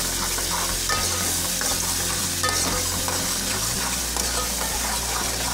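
Green ginger-garlic-coriander paste sizzling as it fries in hot oil with onions in an aluminium pot, while a steel spoon stirs it and scrapes the pot with small ticks.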